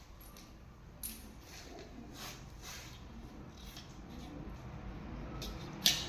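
Scattered light clicks and scrapes, with one sharper click near the end.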